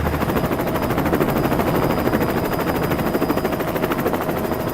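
Helicopter rotor sound effect: a steady, rapid chopping of about ten beats a second.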